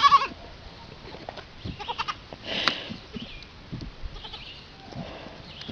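An animal's short pitched cry right at the start, the loudest sound, followed by scattered clicks and knocks and a brief noisy rush about halfway through.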